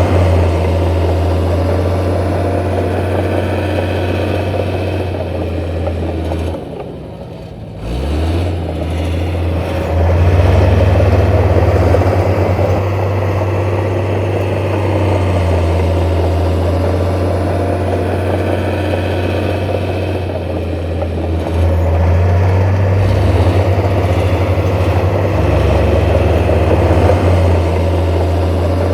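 Heavy diesel engine of earthmoving machinery running steadily under load with a deep, even drone. The sound drops away briefly about seven seconds in, then comes back up.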